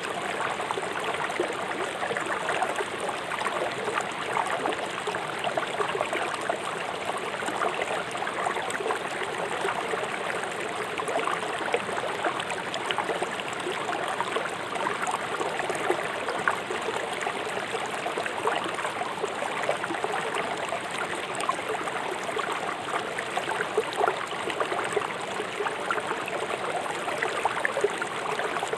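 River water running fast over stones: a steady rush of gurgling and splashing.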